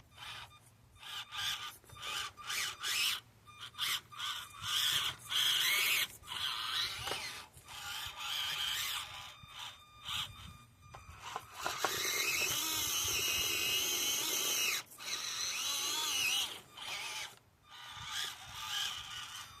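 Small RC crawler's electric motor and drivetrain whining in stop-start bursts as the throttle is worked on and off, with one longer, steadier run in the middle.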